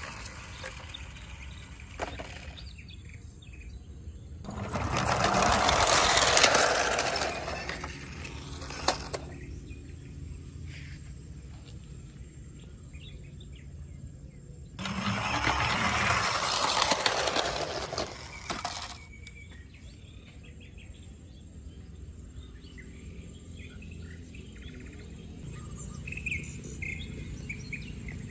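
Birds chirping against outdoor background noise, broken twice by a loud rushing noise lasting about four seconds, once about five seconds in and again about fifteen seconds in.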